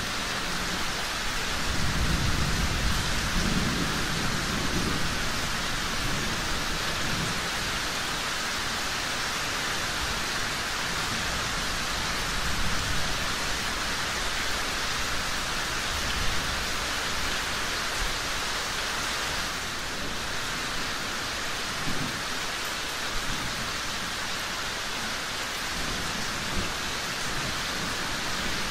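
Steady rain pouring, with a low rumble of thunder that swells about two seconds in and fades a few seconds later. A few sharp crackles from a wood fire pop out later on.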